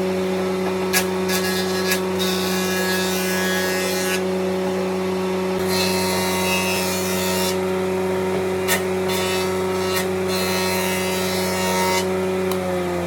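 Electric power tool running steadily at a constant motor pitch, working wood, with a hiss that comes and goes and a few sharp ticks. Its motor starts to wind down right at the end.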